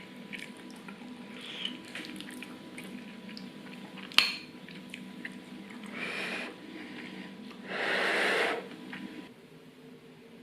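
Kitchen sounds of dishes and cutlery: scattered light clinks, one sharp clink about four seconds in, and two short hissing bursts, the second one longer and louder, over a steady low hum.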